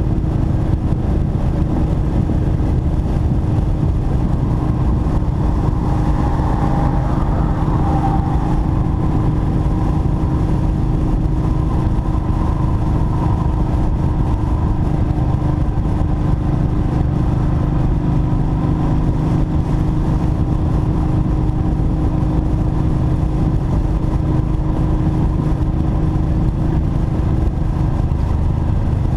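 Kawasaki Vulcan Mean Streak's V-twin engine running steadily at freeway cruising speed, heard from on the motorcycle.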